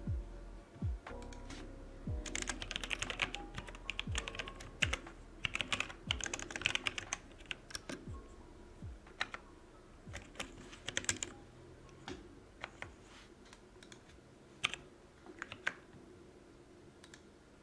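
Computer keyboard typing: fast runs of keystrokes for most of the first two-thirds, then scattered single key presses. Background music with a low, regular beat runs underneath.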